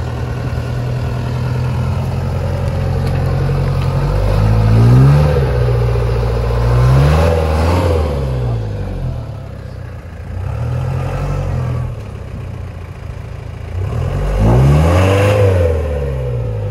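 Land Rover Defender's engine running under load, revved four times with the pitch rising and falling each time, as the truck works its way through a deep rut where it is bottoming out.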